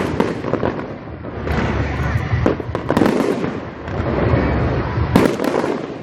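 Fireworks display: a dense run of bangs and sharp cracks over continuous crackling and low booming, with the loudest crack about five seconds in.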